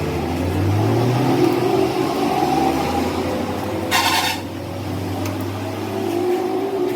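A motor running with a steady low hum that shifts slightly in pitch, and a short hiss about four seconds in.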